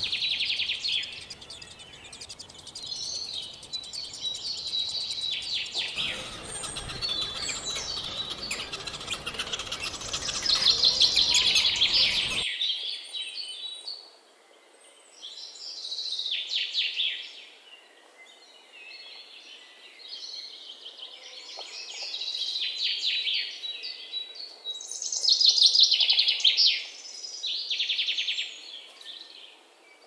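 Songbirds chirping and trilling in quick, high-pitched bursts. The background hiss changes abruptly about 6 and 12 seconds in, where one recording is cut to the next.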